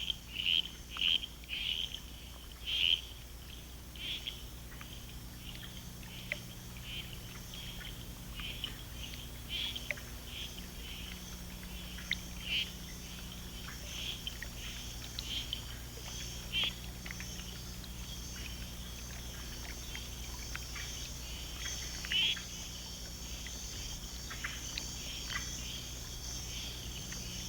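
Frogs calling with short chirps, a quick run of them near the start and then scattered, over a steady high-pitched drone of insects.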